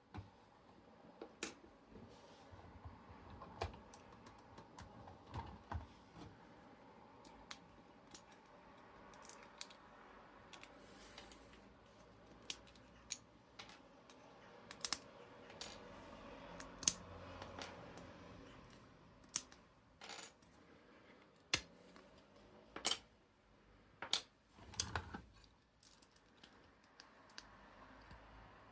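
Small hard plastic clicks and taps at irregular intervals, the sound of Lego pieces being handled and knocked together, with a few sharper clicks in the second half.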